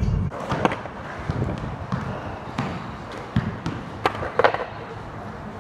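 Skateboard rolling on pavement, with several sharp clacks of the board hitting the ground.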